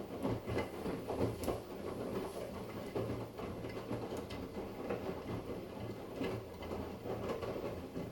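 Arçelik washing machine running a wash cycle with towels: the drum turns and the laundry tumbles in it, an uneven pulsing rumble with scattered knocks and clicks.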